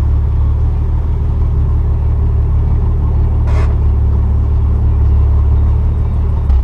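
The 3.5-litre VQ35DE V6 of a 2002 Nissan Maxima SE, with equal-length headers and a straight-piped exhaust without resonator, idling with a steady low rumble. A brief hiss comes about halfway through, and a click comes at the very end.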